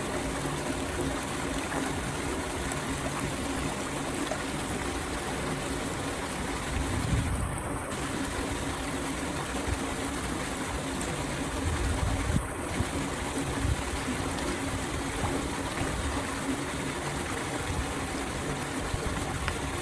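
Water flowing steadily into a storm drain as the flooded road drains away.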